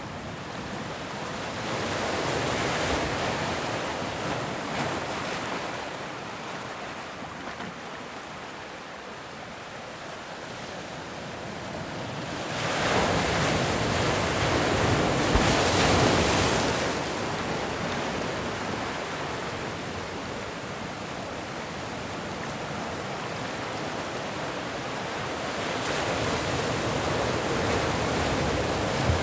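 Ocean surf: waves breaking and washing in, with three swells in loudness. The biggest comes about halfway through, with smaller ones early and near the end, over a steady wash of water between them.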